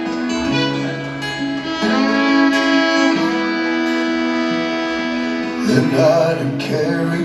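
Instrumental intro of a country/Americana song: fiddle playing long held notes over acoustic guitar. The music gets louder and busier near the end.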